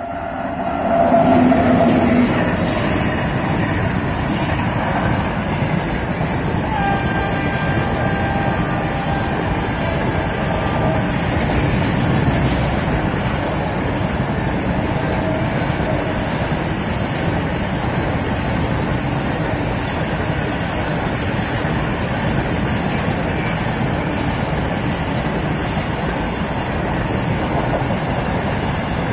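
Indian Railways WAG-9 electric locomotive passing close, loudest about a second in. A long loaded coal freight train of box wagons follows, its wheels running steadily on the rails.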